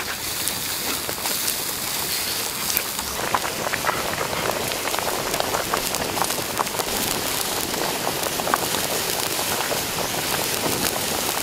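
Pig legs sizzling in a bubbling red sauce in a wok over a wood fire: a steady, dense crackle of frying.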